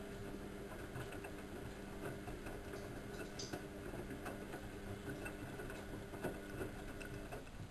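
Bauknecht WA1400 Dolphin washing machine running with a steady motor hum and light ticking. The hum stops shortly before the end.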